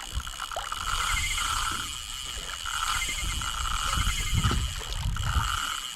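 A fishing reel's drag buzzing in about five short spurts as a big hooked fish pulls line off against it, over a low rumble.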